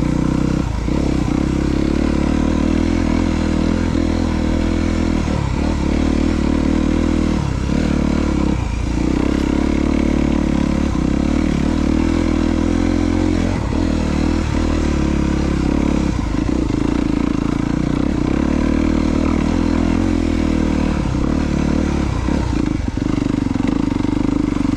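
2022 Honda CRF250R dirt bike's single-cylinder four-stroke engine running as the bike is ridden along a trail. The engine note drops briefly and picks up again many times.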